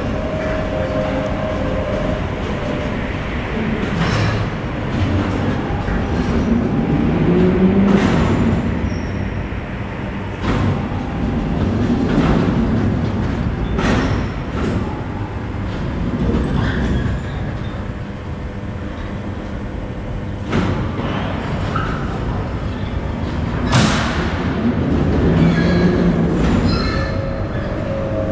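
Metal being loaded onto a truck at a metal plant: clanks and bangs every few seconds over a steady industrial rumble, with one sharper bang about 24 seconds in.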